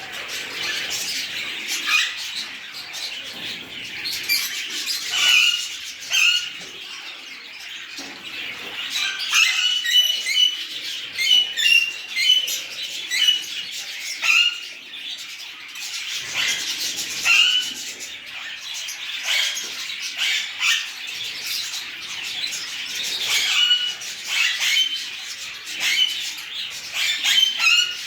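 A group of small birds calling, with many short, high chirps coming quickly one after another and often overlapping.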